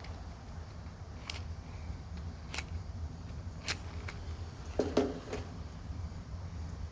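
Paper matches being struck on a matchbook's striker strip: four short scratches about a second apart, then a louder, longer scrape about five seconds in, with a steady low rumble underneath.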